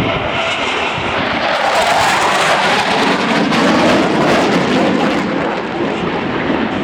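Two Panavia Tornado GR4 jets, powered by RB199 turbofans, making a fast low opposition pass. Their roar builds to its loudest about four seconds in, then eases off slightly.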